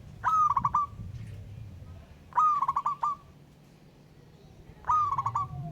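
Zebra dove (perkutut) cooing: three short phrases about two and a half seconds apart, each a held note that breaks into a quick run of staccato coos.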